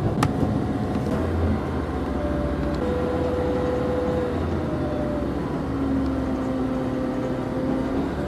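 Diesel regional train heard from inside the carriage, running with a steady low rumble and whining engine and transmission tones that hold, step and glide in pitch as it gets under way. A sharp click sounds right at the start.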